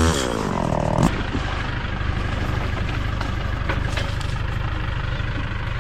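A chainsaw revs once more and cuts off with a click about a second in. After that a motor engine idles steadily with a low, even pulsing.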